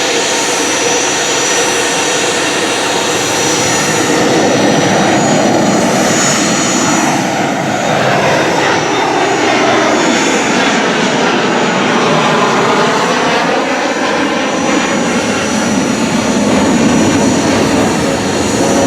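Jet airliner engines passing by, a loud steady rush whose sweeping pitch bands dip and rise again between about the middle and the last few seconds as the aircraft goes past.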